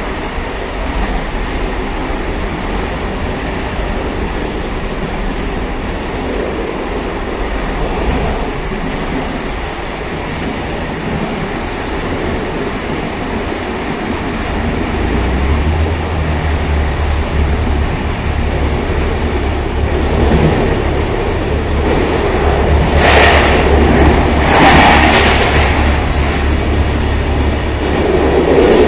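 Railcar running along the track with a steady rumble of wheels on rail. A deep steady hum joins about halfway through, and two brief, louder rushes of noise come less than two seconds apart near the end.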